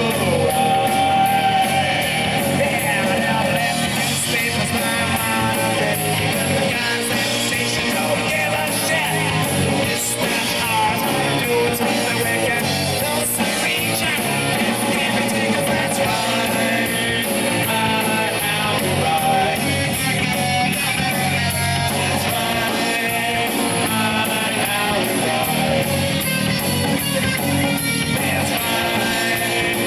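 Live punk rock band playing loudly: distorted electric guitar, bass guitar and drums, continuous throughout.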